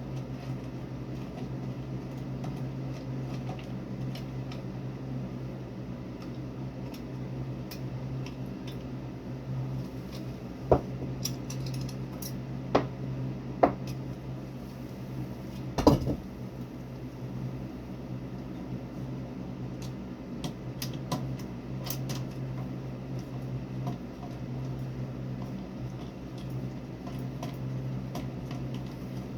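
Small metal parts clinking and knocking a handful of times over a steady low hum, the loudest knock about two-thirds of the way through.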